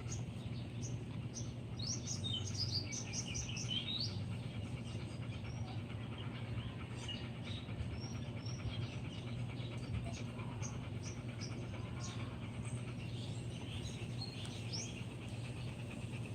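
Small birds chirping in short, quick calls, busiest about two seconds in and again near the end, over a steady low hum.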